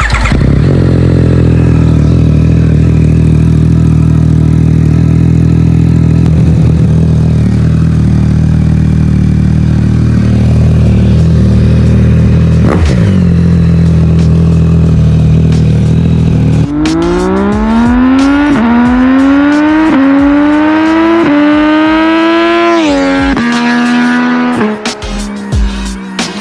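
Yamaha MT-09 SP's three-cylinder engine through a Yoshimura AT2 exhaust, running at a steady idle. About two-thirds of the way in it accelerates hard, the pitch climbing and dropping back with each of about five quick upshifts.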